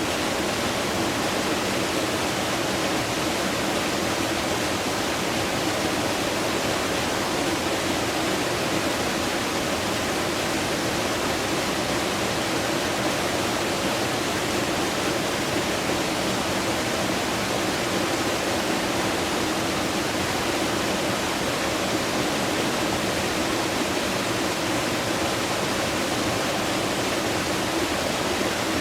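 Rushing water of a fast-flowing stream, a steady, unbroken wash of sound.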